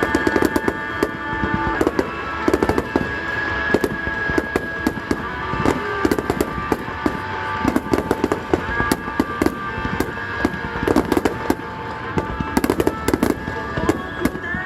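Fireworks bursting in quick succession, a dense run of bangs and crackles throughout, over a pop song playing.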